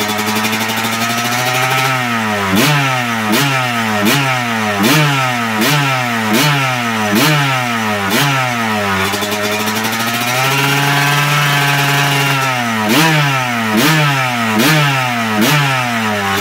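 2000 Kawasaki KX 250's single-cylinder two-stroke engine, freshly restored, running on the stand while the throttle is blipped by hand. A run of quick rev blips about one a second is followed by a held rev in the middle, then a few more blips, before it drops back to idle.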